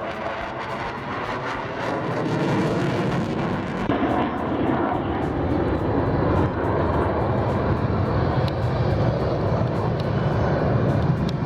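Aircraft engine noise from a fixed-wing airplane in flight, a dense steady rumble that grows a little louder a few seconds in.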